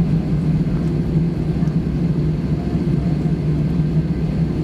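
Steady cabin noise inside an Airbus A320 on the ground after landing: a constant low engine drone with a hum over airflow noise.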